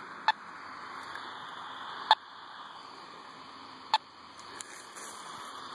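Radio-telemetry receiver hissing with static, with a short beep about every two seconds, four in all: the pulses of the transmitter implanted in a tracked timber rattlesnake, coming through as a strong signal.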